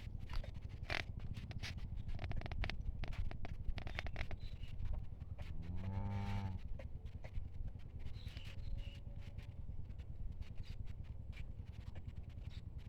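A cow gives one short, low moo about six seconds in, over scattered scraping and rustling clicks and a steady low rumble.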